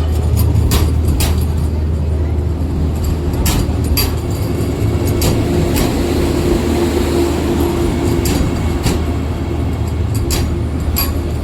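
Vande Bharat Express electric train rolling in to arrive at a station: a steady low rumble with irregular sharp clicks of wheels over rail joints, and a faint steady tone for a few seconds in the middle.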